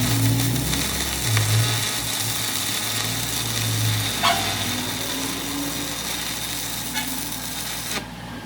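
Electric welding arc sizzling and crackling steadily, then cutting off suddenly near the end as the arc is broken.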